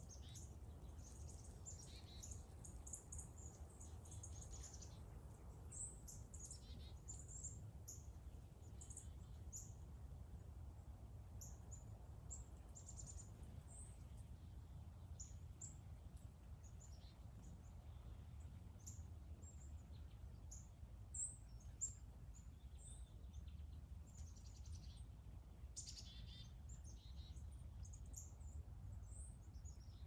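Small birds chirping and calling, faint short high chirps scattered throughout, over a low steady rumble.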